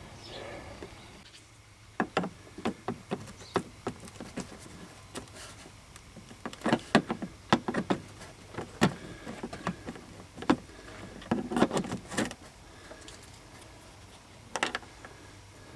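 Plastic retaining clips being pried out of a Corvette C5's plastic windshield cowl panel: irregular clicks, snaps and knocks, several in quick runs, then one last knock near the end.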